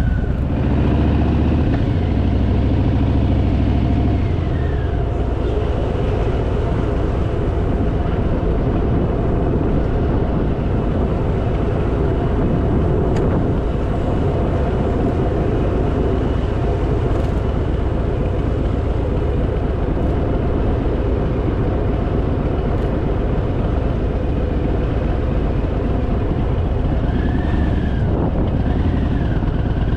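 Harley-Davidson Fat Boy's V-twin engine running on the move, under steady wind and road noise. The engine is heavier for the first few seconds, then settles to an even run.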